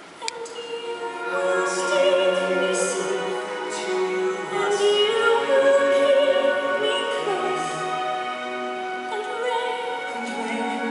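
Live orchestra accompanying an operatic musical-theatre duet, with sustained sung lines over strings; the music swells in loudness over the first two seconds.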